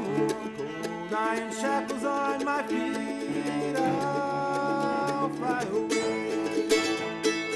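Acoustic string-band music in a bluegrass style: quick picked notes on plucked strings under a held, sliding melody line.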